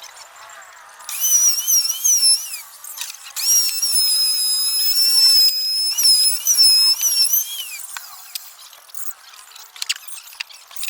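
Electric power tool running at high speed with a high-pitched motor whine, in two runs, the first short and the second longer. Its pitch dips and recovers as the tool works the wood. Light clicks and knocks of handling lie between and after the runs.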